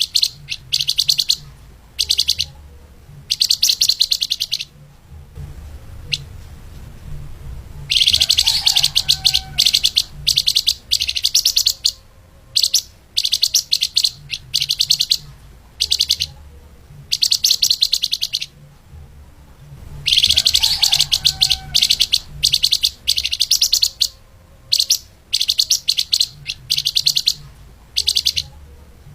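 A flamboyan (lemahan) songbird singing rapid, tightly packed high chirps in short bursts, with two longer dense trills of about three seconds each. A faint low hum runs underneath.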